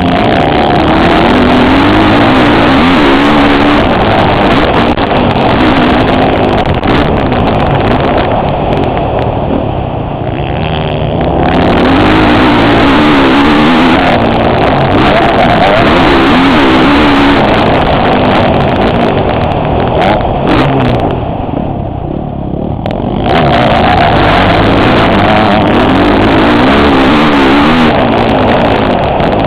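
Motocross motorcycle engine at full throttle, revving up and down as it is ridden, heard on board from a helmet-mounted camera. The throttle eases off briefly twice, about ten seconds in and a little past twenty seconds.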